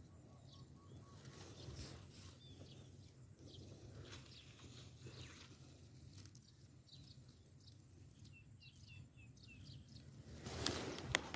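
Faint outdoor rural ambience: small birds chirping now and then over a low steady hum, with rustling footsteps through vegetation near the end.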